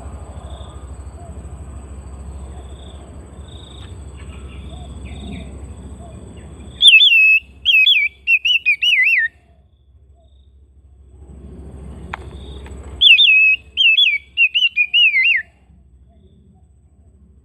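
Oriental magpie-robin singing: two loud phrases of quick, warbling whistled notes, each about two and a half seconds long and about six seconds apart, starting and stopping abruptly. A low hum and faint chirps lie underneath.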